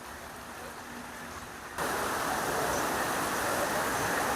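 Heavy rain coming down, a steady hiss that grows a little and then suddenly becomes much louder about two seconds in.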